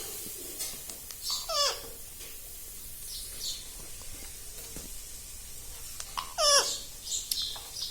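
Pet parrot calling: two drawn-out, wavering calls that fall in pitch, about a second and a half in and again near the end, with a few short high chirps between.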